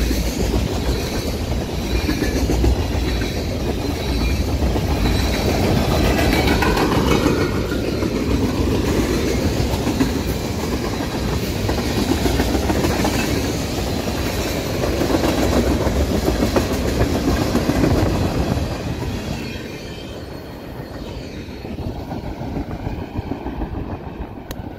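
Freight train of tank cars rolling past close by, its wheels clattering steadily on the rails. About twenty seconds in the sound falls away as the end of the train passes and draws off.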